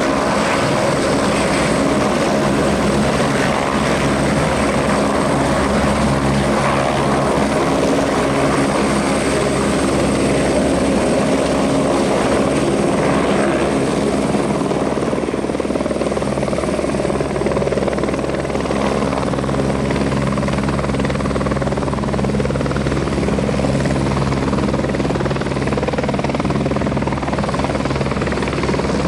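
Airbus Helicopters AS350 single-engine helicopter running steadily: a constant rotor beat with a thin high turbine whine over it.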